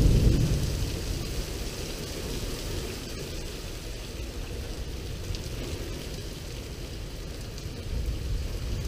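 Heavy thunderstorm rain falling steadily in big drops. A low rumble at the start fades over about a second, and another low rumble swells near the end.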